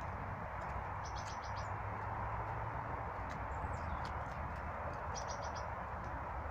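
Small birds chirping at garden bird feeders: a quick run of about five high notes about a second in, a few scattered chirps, and another run of about five notes about five seconds in. Under them runs a steady rushing background noise.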